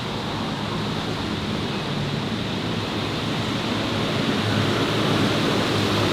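Steady city street ambience: a dense, even hiss with a low hum underneath, growing slightly louder toward the end.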